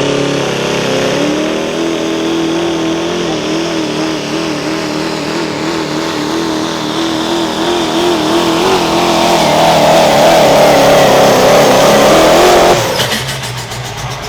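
Diesel pulling truck's engine run hard under load down the track, its note wavering steadily. It grows louder and higher about nine seconds in, then drops off suddenly near the end.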